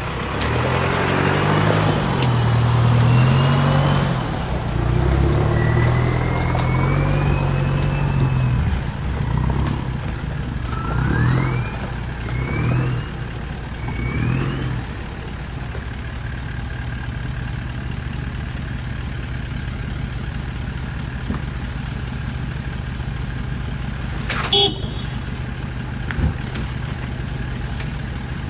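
A four-wheel drive's engine revving up and down repeatedly, with short rising whines over it. About halfway through it settles into a steady low drone, and a sharp click comes near the end.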